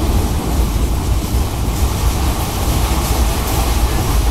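Passenger express train running, heard from aboard a coach: a steady, loud rumble and rush of the wheels and car body on the track.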